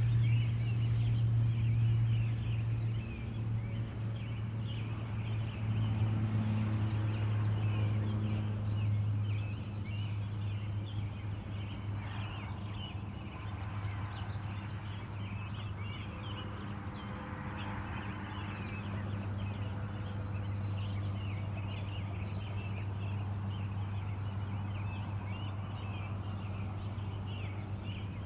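Morning chorus of many wild birds chirping and trilling continuously, over a steady low hum that is the loudest part and eases off about a third of the way in.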